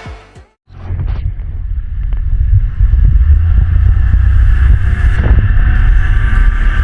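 Wind buffeting the microphone on a small motorboat under way, over the steady drone of its motor; it comes in after a brief silence and builds to full loudness over the first couple of seconds.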